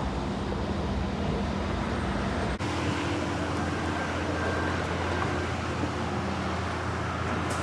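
Steady street traffic noise with a low engine hum underneath; the hum changes pitch after a brief dip about two and a half seconds in.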